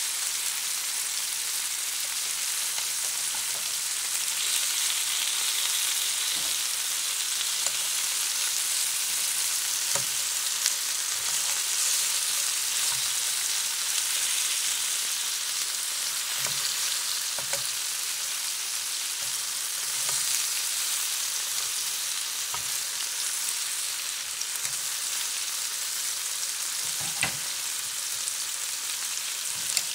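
Seasoned chicken pieces and sliced onions sizzling steadily in oil in a nonstick frying pan, with a few light clicks and scrapes of a utensil against the pan as the chicken is cut into smaller pieces.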